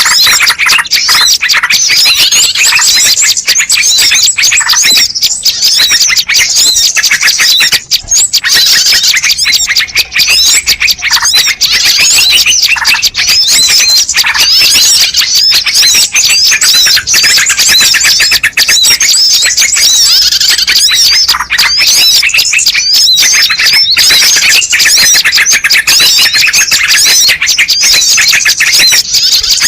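Dense chorus of many small birds chirping and calling rapidly over one another without pause, a bird-lure ('pikat') recording meant to draw wild birds in.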